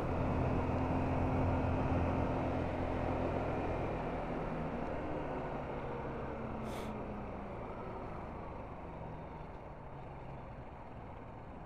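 Motorbike engine running, with wind rush on the helmet microphone; the engine note changes about four seconds in and the whole sound fades gradually, with a brief hiss about seven seconds in.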